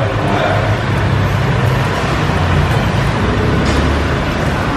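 Steady low rumble of road traffic, a motor vehicle's engine running, over a general background hiss.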